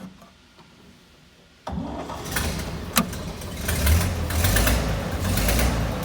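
1929 Buick Master Six's straight-six engine started from cold: it comes in suddenly a little under two seconds in, with a sharp pop about a second later, then runs up and settles toward a fast idle.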